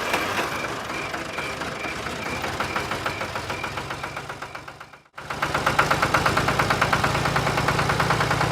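Engine running with a fast, even beat, cutting out briefly about five seconds in and then running on a little louder.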